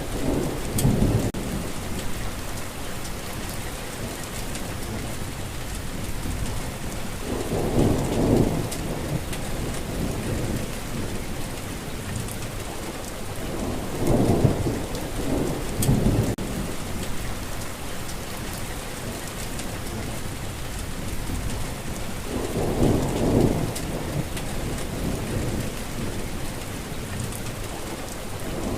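Steady heavy rainfall with a low roll of thunder every seven or eight seconds, four in all.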